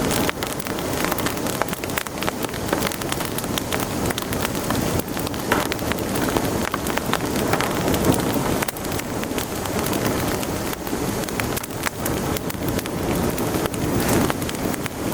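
Wood fire crackling steadily in a fireplace: a constant stream of small snaps and pops over a soft rushing hiss.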